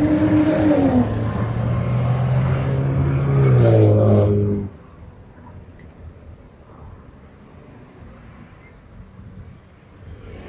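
A motor vehicle's engine running loud and close as it passes, its note dropping about a second in and again just before it cuts off suddenly about halfway through. Only a faint background remains afterwards.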